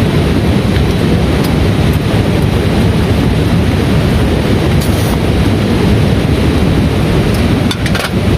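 Heavy rain pouring steadily, with a dense low rumble under it and a few faint sharp ticks near the middle and end.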